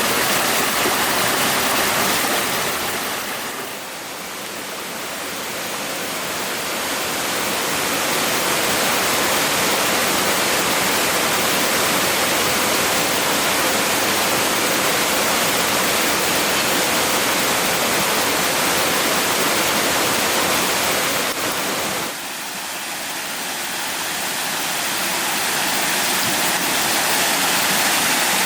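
Rushing water, like a forest stream or small waterfall, a steady dense hiss. It dips twice, briefly quieter about four seconds in and again about three quarters of the way through.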